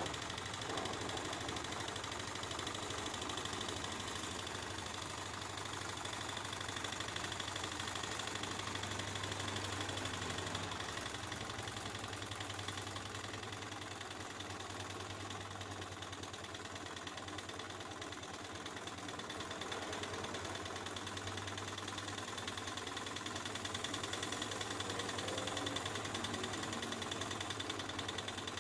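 Beta-type Stirling engine running steadily, its moving parts making a fast, even mechanical ticking.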